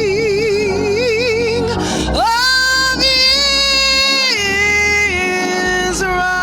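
A woman sings long held notes with wide vibrato over a keyboard and bass accompaniment. About two seconds in she slides up to a higher sustained note, then steps back down in stages.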